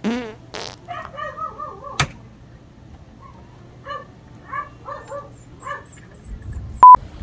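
A dog giving a series of short whines and yips, with a sharp click about two seconds in. Near the end comes a loud, steady beep tone, a bleep laid over the sound track.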